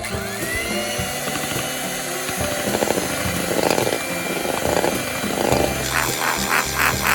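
Batter or egg whites being beaten in a mixing bowl: scraping strokes that turn into quick rhythmic beats, about five a second, near the end. Background music plays throughout.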